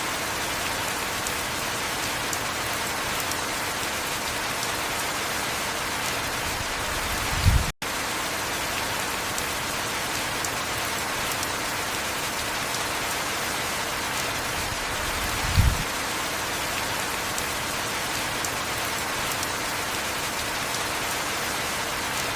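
Heavy, steady rainfall, with a short low thump twice, about eight seconds apart, and a split-second cut-out in the sound about eight seconds in.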